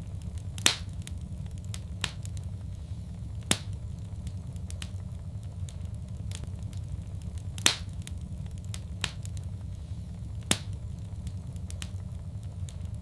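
Wood fire crackling in a fireplace: a steady low rumble of burning under scattered small ticks, with four loud sharp pops every three to four seconds.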